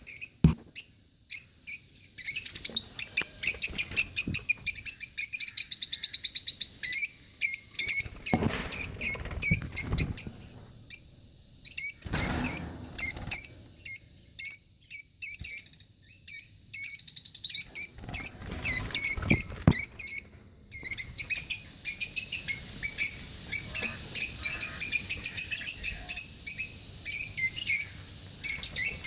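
Lovebirds chirping in quick, high-pitched runs almost without pause, with a few soft rustles or knocks among them.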